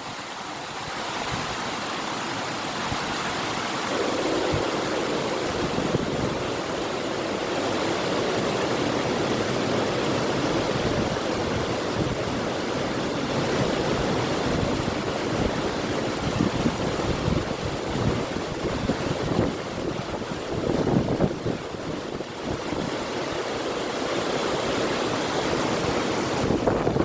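River water flowing, with wind gusting across the microphone; the rushing grows fuller and lower about four seconds in.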